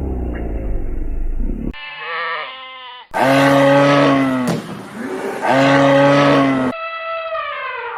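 Farm animal calls spliced one after another: a low rumble, then a short call, then two loud, long calls in the middle, and a call falling in pitch near the end.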